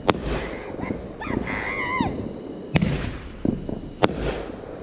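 Fireworks going off: three sharp bangs, near the start, a little before three seconds in and about a second later, each followed by a short crackling hiss. Between the first two bangs comes a brief high, wavering squeal.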